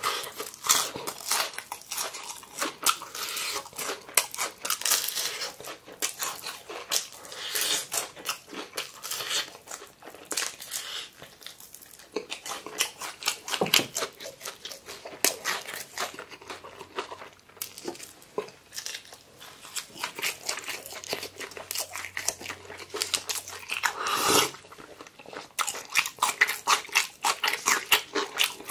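Close-miked crunching and chewing of crispy fried chicken: many sharp crunches of the fried crust in quick succession, thinning out in stretches as the chewing slows.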